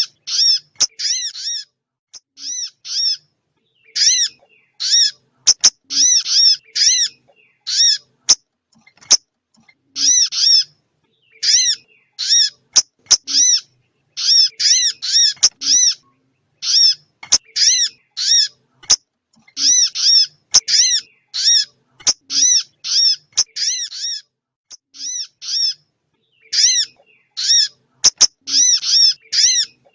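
Recorded small-bird call played as a trapping lure: short, sharp, arched chip notes with a ringing overtone, given singly or in quick runs of two to four, repeating over and over with short gaps. Faint clicks fall between some of the notes.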